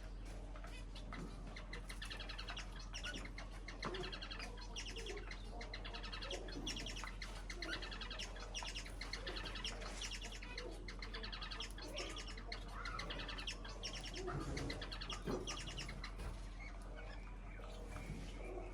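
A flock of small cage birds chirping and chattering rapidly and continuously, with many overlapping calls. A steady low electrical hum runs underneath.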